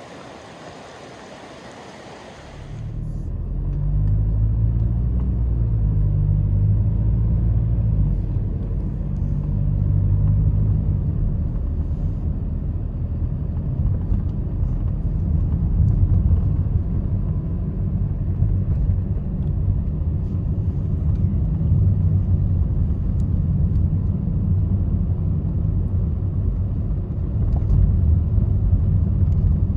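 A steady hiss, then from about three seconds in a loud, steady low rumble of a motor vehicle on the move, the engine and road noise of a car being driven.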